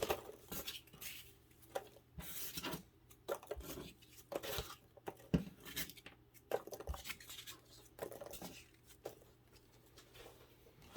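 Shipping packaging being handled by hand during an unboxing: irregular rustling and crinkling, with light scrapes and clicks, in short bursts.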